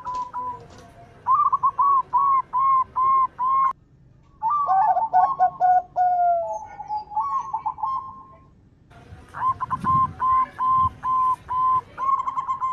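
Zebra dove (perkutut) song: runs of short, rapidly repeated cooing notes at nearly one pitch, in several bursts with brief pauses, and faint higher chirps above them.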